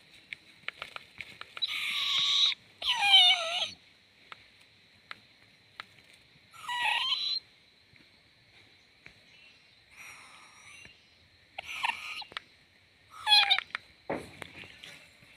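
Young owl giving short raspy, hissing screeches, about five of them, some sliding down in pitch, with small clicks in between.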